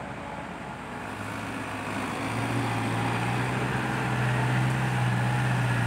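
Heavy diesel engine running under load, growing steadily louder from about two seconds in.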